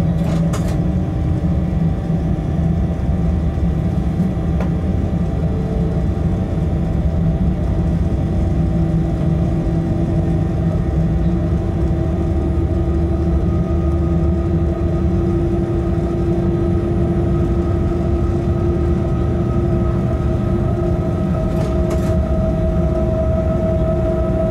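Locomotive running light at speed, heard from the cab: a steady low rumble of wheels on rail with a whine that slowly rises in pitch. Two brief clicks, one just after the start and one near the end.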